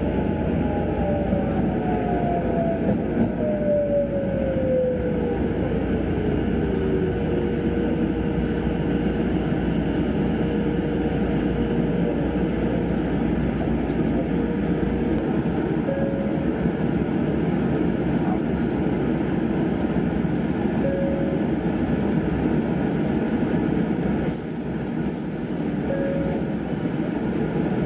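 Sanyo Electric Railway commuter train running with a steady rumble. Its motor whine falls in pitch over the first several seconds as the train slows, then a steady tone holds.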